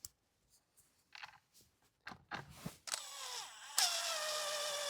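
A few light handling knocks, then about three seconds in a power drill's motor starts and runs with a steady whine as it drives a screw, its pitch sagging slightly near the end as the screw takes up.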